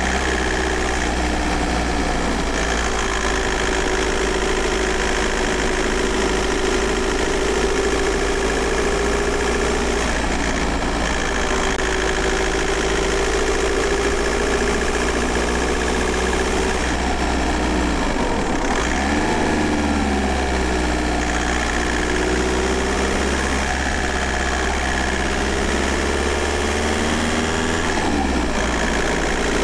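VW Golf Mk4 4motion's 1.9 TDI four-cylinder turbodiesel (AJM) running steadily, heard onboard the car, its pitch wandering gently. About two-thirds of the way through it dips briefly, then settles at a changed pitch.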